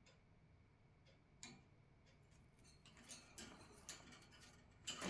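Near silence with faint scattered clicks and taps: a single click about a second and a half in, then a busier run of small ticks over the second half.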